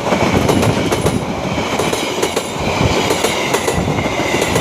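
A train passing close by, its wheels clattering steadily over the rail joints, with a faint thin squeal later on.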